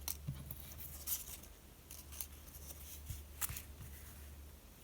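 Quiet pause: a steady low hum with a dozen or so faint, short clicks and rustles scattered through it.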